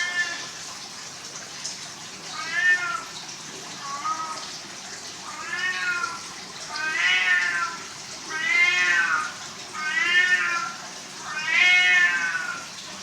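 Domestic cat meowing over and over, about eight meows roughly a second and a half apart. Each meow rises and then falls in pitch, and they grow louder in the second half.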